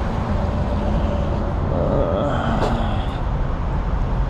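Steady low rumble of motor vehicles, with a brief higher tone and a sharp click about two and a half seconds in.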